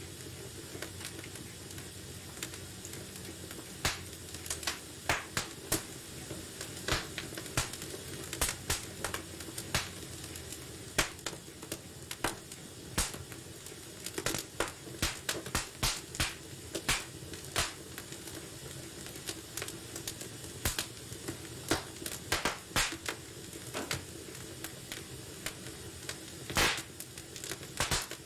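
Wood fire burning in a fireplace: a steady hiss with many sharp, irregular crackles and pops.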